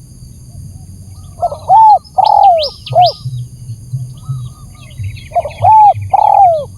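Spotted dove (tekukur) cooing as a lure call: two phrases of several down-slurring coos, the first about a second and a half in and the second near the end. Short high chirps from another bird sound over the first phrase.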